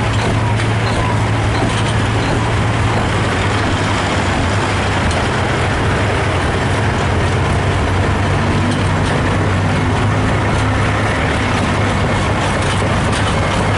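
Transport truck's diesel engine idling, a steady low hum that holds unchanged throughout.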